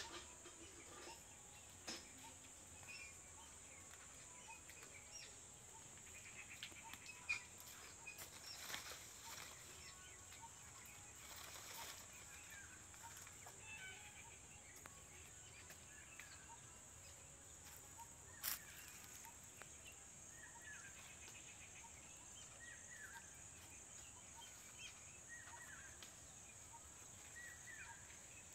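Quiet outdoor ambience: faint short bird chirps, more frequent in the second half, over a steady high-pitched hiss, with a few soft clicks.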